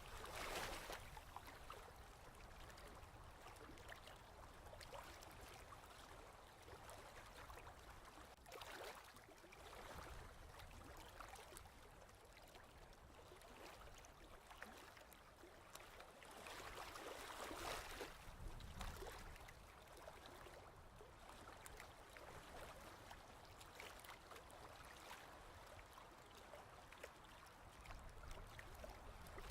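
Faint ocean waves washing in and drawing back, a swell roughly every eight seconds.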